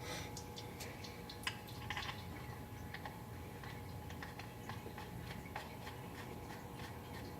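Scattered light clicks and ticks, a few a second and unevenly spaced, over a low steady hum.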